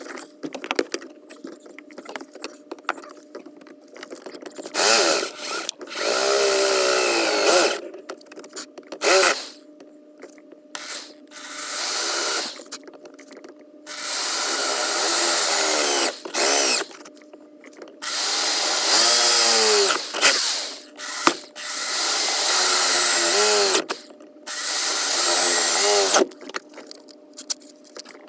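A handheld electric power tool run in about nine short bursts, its motor speeding up at the start of each burst and winding down at the end.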